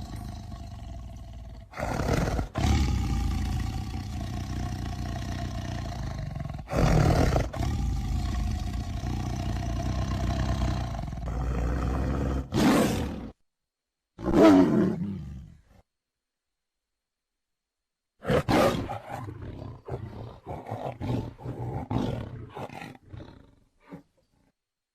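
Bengal tiger vocalising. First comes a long rumbling growl, with sudden louder surges about 2, 7 and 12 seconds in. Then one loud roar falls in pitch around the middle, and after a pause there is a run of short, quick grunting calls.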